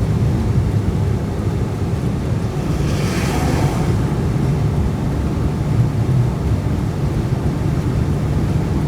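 Steady wind and road noise of a Jeep driving at highway speed in strong desert winds, with wind buffeting the microphone. A brief whoosh about three seconds in.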